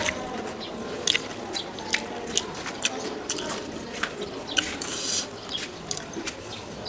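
Close-miked chewing of a crunchy singju salad of raw cabbage, onion and fried snacks: sharp, irregular crunches about twice a second.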